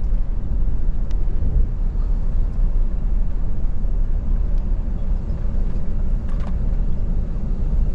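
Steady low rumble inside the cabin of a British Airways Airbus A380 on the ground just after landing.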